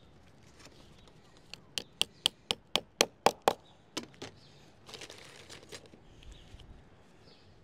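A quick run of about ten sharp knocks, about four a second, from a tool striking during leadwork on a roof, followed by a brief scraping rustle.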